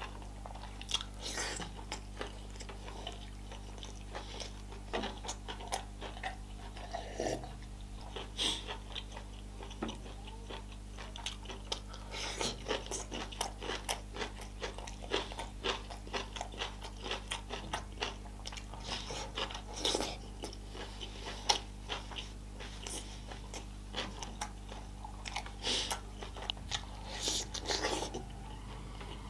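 Close-miked chewing of a person eating: irregular wet smacks and clicks of the mouth, over a steady low hum.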